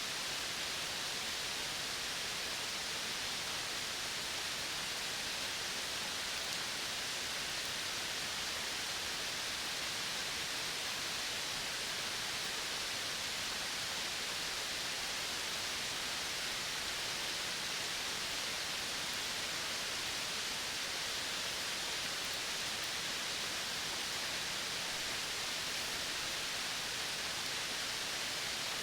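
Steady, unbroken outdoor ambience hiss, brightest in the upper range, with no distinct calls or events standing out.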